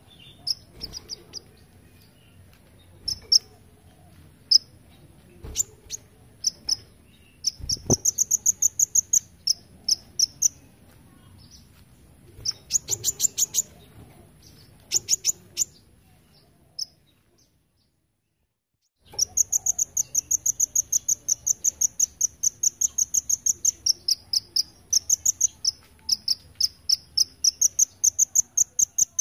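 Kolibri ninja sunbird (konin) singing high, rapid chipping phrases, the insect-like 'golden grasshopper' (belalang emas) shots. Short bursts come first, then, after a brief total silence about two-thirds of the way through, one long unbroken run of quick chips.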